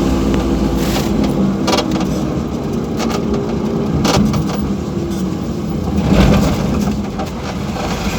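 Motor vehicle engine running steadily, with a few sharp knocks and a brief louder low rumble about six seconds in.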